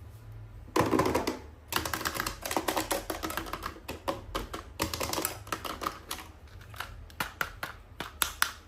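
Hands unboxing a toy: plastic packaging crinkling, with quick clicks and taps. The clicks come thick and fast for the first several seconds, then thin out to separate sharp clicks.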